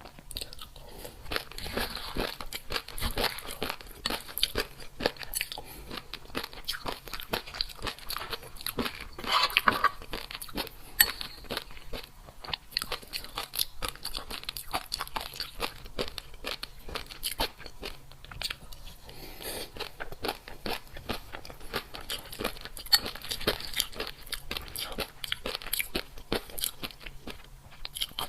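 A person chewing crunchy food close to the microphone: dense, irregular crunching and biting, with a louder run of crunches about nine to ten seconds in.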